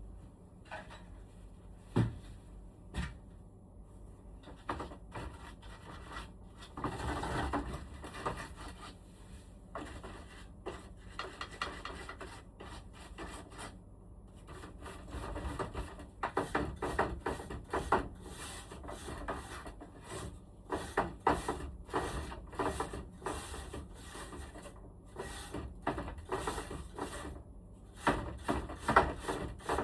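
Hand work on room air conditioner parts during cleaning: irregular runs of rubbing and scrubbing strokes, with a couple of sharp knocks in the first few seconds.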